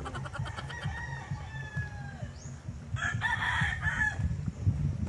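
Rooster crowing in the distance: a fainter drawn-out crow falling at the end, then a louder crow about three seconds in, over a low rumble.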